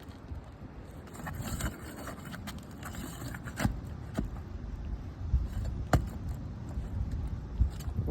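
Irregular sharp clicks and scrapes over a low, uneven rumble of handling noise.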